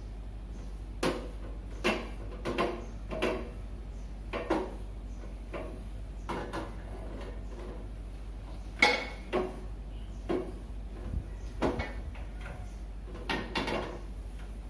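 Irregular knocks and clatters of kitchen things being handled, set down and moved while the kitchen is tidied, the sharpest knock about nine seconds in, over a steady low hum.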